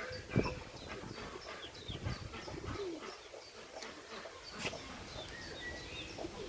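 Chicks peeping rapidly and continually in short high chirps, with the mother hen's low soft clucks beneath them. A sharp knock about half a second in is the loudest sound.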